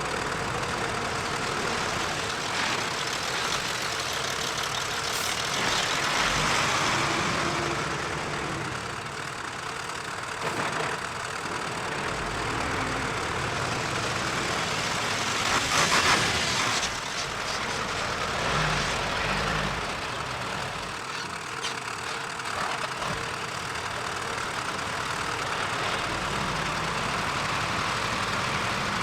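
Diesel engine of heavy earthmoving machinery running steadily, with brief louder surges about six and sixteen seconds in.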